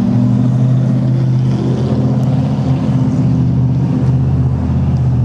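Steady low machine hum with an even drone, as from a motor running.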